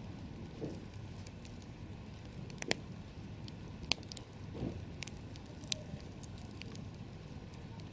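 Campfire burning, with a steady low rumble and scattered sharp pops and crackles, the loudest two a little over a second apart near the middle.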